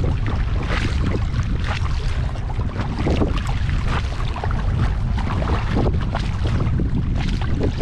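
Kayak paddle dipping and splashing in lake water, a splash every second or so, over a constant low wind rumble on the microphone.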